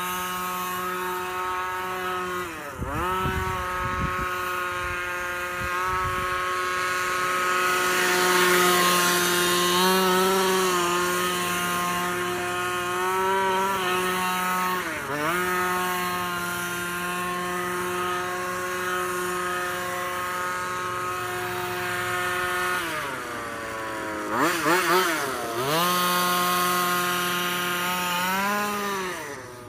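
The 30.5cc two-stroke engine of a King Motor Baja 5B RC buggy, held at high revs with a steady buzzing tone. Several times the pitch drops briefly and climbs back as the throttle is let off and opened again, twice in quick succession about two thirds of the way through.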